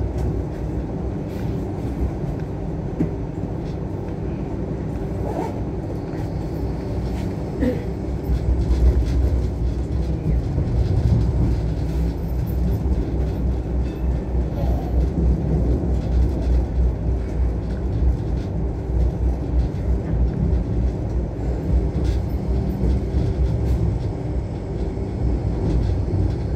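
Hong Kong Light Rail train running along the track, heard from inside the car: a steady low rumble of wheels and running gear that grows louder about eight seconds in.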